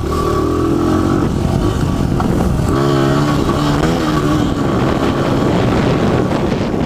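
Dirt bike engine running under throttle while being ridden, its pitch wavering up and down with throttle changes about three seconds in.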